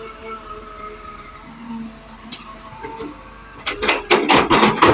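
Excavator running with a steady engine hum and a faint hydraulic whine, then about three and a half seconds in a loud burst of rattling and clattering.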